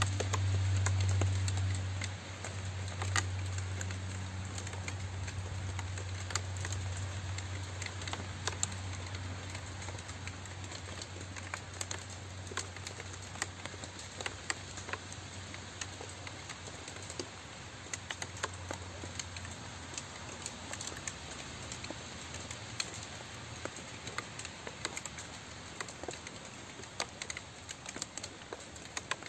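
Rain falling steadily, with many separate drops ticking close by. A low rumble underneath is strongest at the start and fades away about two-thirds of the way through.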